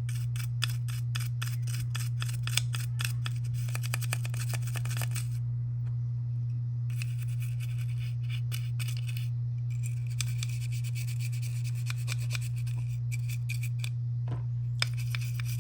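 Stiff toothbrush scrubbing a plastic model car part to strip its alcohol-softened paint, in quick scratchy strokes that run together into continuous scrubbing after a few seconds, over a steady low hum.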